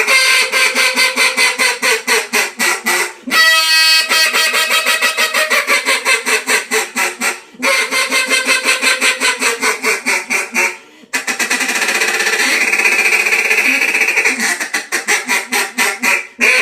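New Era Duck Nasty poly duck call blown in runs of quick, loud mallard quacks, about four a second, broken by short pauses. About two-thirds through, the notes run together into a more continuous stretch before the quacking picks up again. The reed is trimmed short for a higher end.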